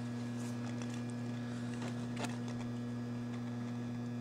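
Steady electrical mains hum, with a few faint clicks of hard plastic parts being handled.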